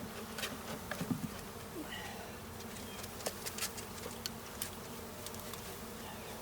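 A mass of honeybees buzzing steadily, a package of thousands just shaken into a hive, with scattered light clicks and taps throughout.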